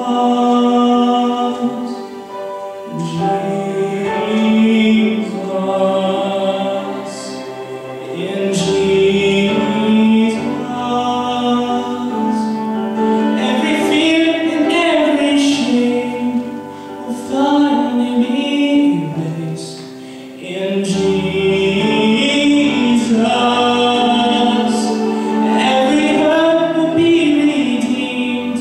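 Gospel song: a voice holding long, sliding notes without clear words, over instrumental accompaniment with a bass line.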